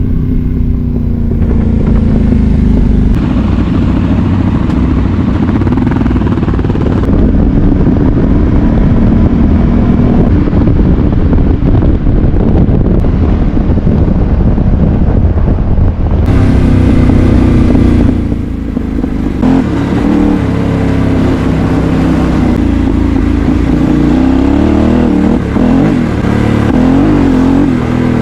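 Yamaha Ténéré 700's parallel-twin engine running under way, with heavy wind noise on the microphone. The engine pitch wavers up and down near the end as the throttle changes.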